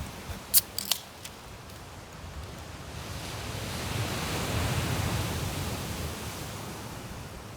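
Strong wind and surf on a beach: a low rumble of wind on the microphone under a hissing rush that builds to a peak about halfway through and then dies away. A few sharp clicks come in the first second.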